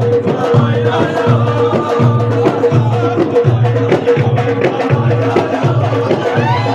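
Ahwash folk music: frame drums beat a steady, even rhythm under a held note, with voices singing over it.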